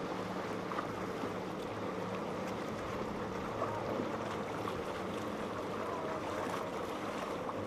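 Boat engines running with a steady low hum over the rushing wash of water and waves.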